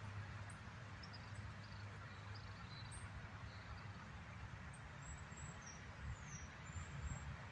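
Faint, high, short bird chirps scattered over several seconds, some falling in pitch, above a steady low hum and hiss.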